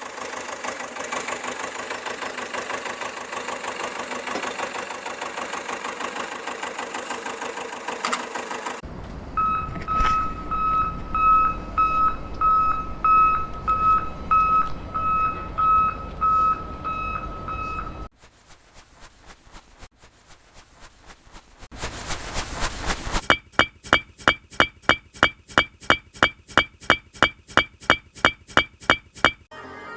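A small motor runs with a fast rattling pulse. Then an electronic beeper sounds about twice a second for several seconds over a low rumble, like a reversing alarm. Later a louder electronic beeping comes about three times a second.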